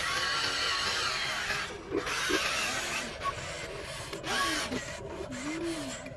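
Packaging being handled: irregular scraping and rustling with short squeaks that rise and fall in pitch.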